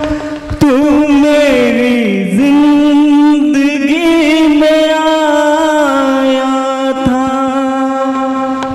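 Live singing: a voice holding long notes that waver and slide in pitch, over music, with a couple of sharp knocks.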